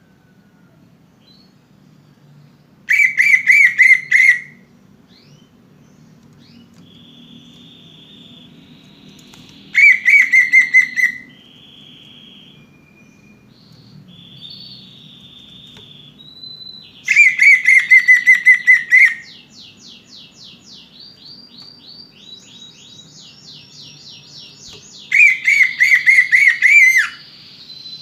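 Cucak ijo (greater green leafbird) song: four loud bursts of rapid warbling trill, about seven seconds apart, with softer chirps and quick runs of repeated high notes between them.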